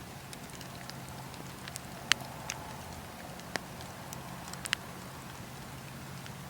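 Fireplace fire crackling: scattered small crackles over a steady low rumble, with a handful of sharper pops, the loudest about two seconds in.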